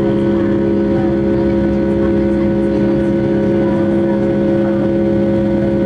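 Boeing 757-200 jet engines and airflow heard inside the passenger cabin: a steady, loud drone, several unchanging hum tones over a low rumble.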